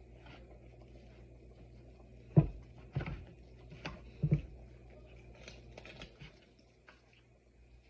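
Kitchen handling noise: a few dull thumps and light knocks as rotisserie chicken pieces and their dish are handled on the counter, the first thump the loudest and the last one doubled. A steady low hum sits underneath.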